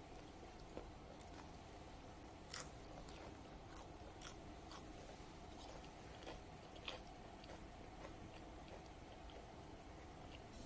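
A person chewing crisp raw cabbage dressed with salt and sesame: quiet scattered crunches, with three louder ones spread through.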